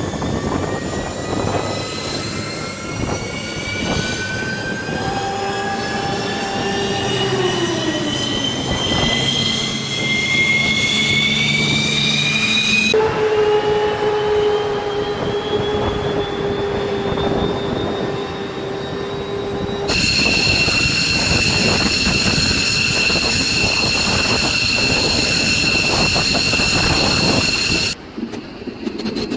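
Jet engine turbine whine in several edited clips: a whine rising slowly in pitch over the first dozen seconds, as when an engine spools up, then steady high whines over a rushing roar, changing abruptly at about 13, 20 and 28 seconds.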